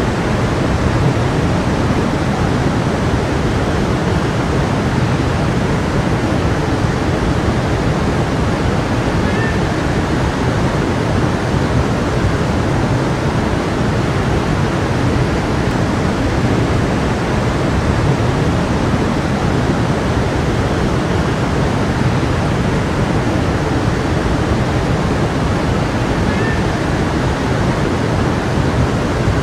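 Stream flowing steadily: a continuous, even rush of running water.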